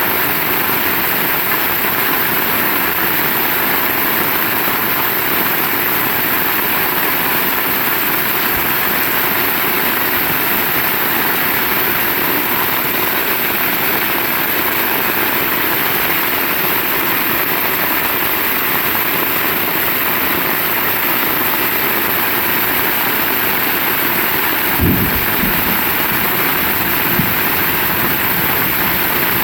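Heavy rain falling, a steady even hiss, with a couple of brief low thumps near the end.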